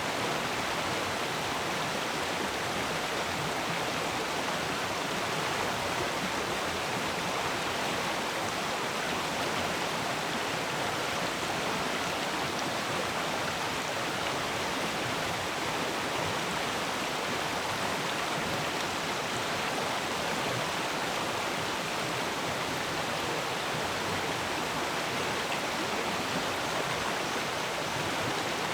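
Stream of water flowing steadily over rocks, a continuous even rush and babble.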